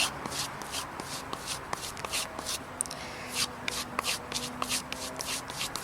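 Knife blade being stropped on a homemade strop: quick, even swishing strokes of the edge dragged along the strop, about three a second, as the final step after fine polishing on the water stones, to remove burrs and polish the edge.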